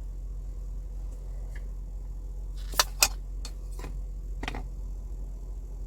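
A handful of short clicks and knocks from objects being handled and set down, the two loudest close together about three seconds in, over a steady low hum.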